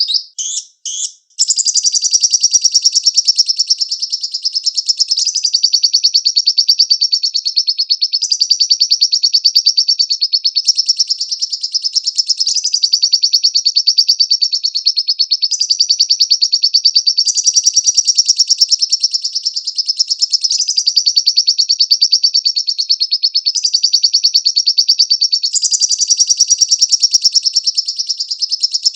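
Lovebird singing: a few short high calls, then a long unbroken, very rapid chattering trill that steps slightly up or down in pitch every couple of seconds.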